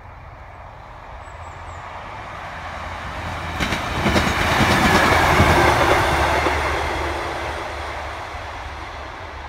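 Class 150 Sprinter two-car diesel multiple unit passing at speed: engine and wheel noise swells, is loudest about five seconds in, then fades as it moves away. A quick run of wheel clicks over the rail joints comes just before the loudest point.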